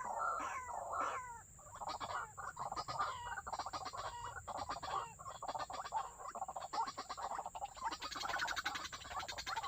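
White-breasted waterhen calls: a few falling notes, then a fast, dense run of short repeated croaking notes, several a second.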